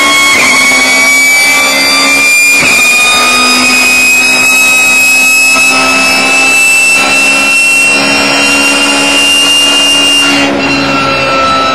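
Race car's engine heard from inside the cockpit under hard throttle, its pitch climbing slowly down a straight, with a brief break about two and a half seconds in that fits a gear change. Near the end the pitch drops as the driver lifts off for the bend.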